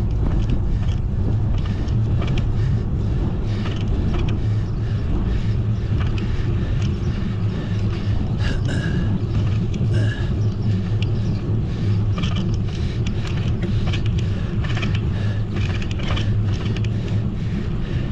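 Steady wind rush and road rumble while riding a bicycle, with scattered small clicks and rattles.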